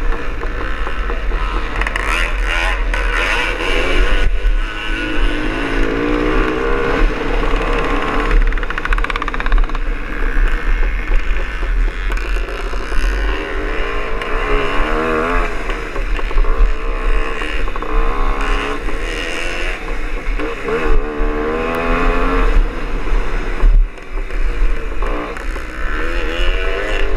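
Greeves Hawkstone scrambler's two-stroke single-cylinder engine at full race effort, its pitch climbing and falling again and again as the rider accelerates, shifts and backs off. Heavy wind buffeting on the bike-mounted microphone runs underneath.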